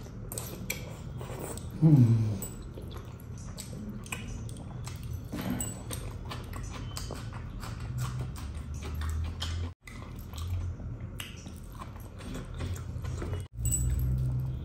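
Close-miked eating: wet chewing, lip-smacking and mouth clicks as fish curry and rice are eaten by hand. About two seconds in, a short loud falling vocal sound, like a pleased 'mmm'.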